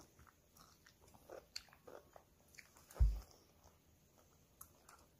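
Faint close-up biting and chewing of sea grapes, with small scattered clicks from the mouth. A single dull thump about three seconds in is the loudest sound.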